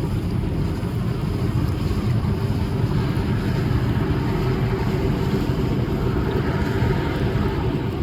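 Wind buffeting the microphone in a steady low rumble, mixed with a boat's engine running and water on the hull.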